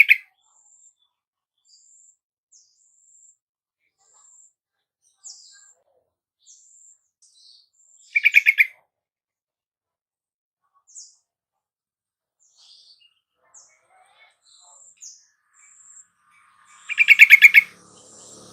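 Yellow-vented bulbul calling three times, each a loud half-second burst of rapid bubbly notes, about eight or nine seconds apart. Faint, thin, high chirps come between the calls.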